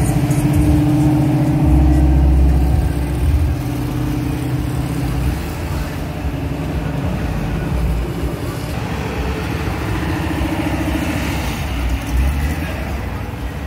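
Engines and exhausts of cars and pickup trucks driving slowly past in a line, loudest in the first few seconds and then steadier.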